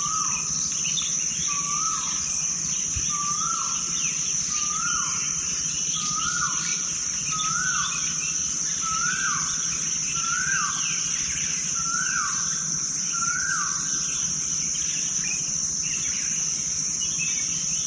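Forest ambience: a steady high-pitched insect drone, with a bird repeating a short swooping call about every second and a half until a few seconds before the end, and fainter chirps from other birds.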